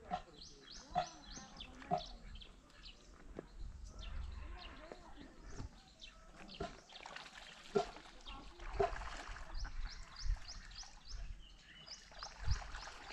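Birds calling in an open rural setting: rapid runs of short, high chirps repeat now and then, with scattered single calls and a low rumble underneath.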